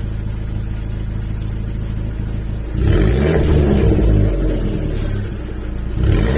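Abarth Grande Punto's 1.4 turbo four-cylinder running through a muffler-deleted exhaust: it idles steadily, is revved up a little under three seconds in, drops back, and is revved again near the end.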